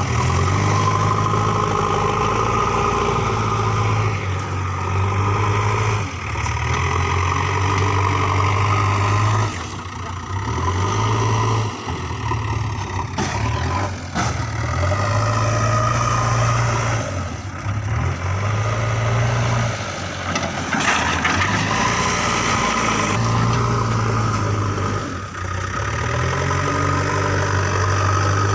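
JCB 3DX backhoe loader's diesel engine running under working load, its note repeatedly rising and falling every few seconds as it digs and loads mud.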